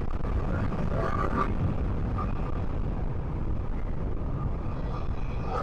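Motorcycle on the move: a steady low rumble of wind and engine noise on the rider's microphone, from a Yamaha R15 V3.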